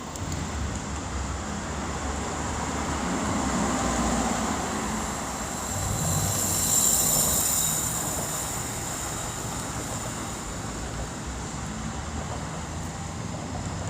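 Road traffic noise: a steady rush of passing vehicles that swells to its loudest about seven seconds in, then settles.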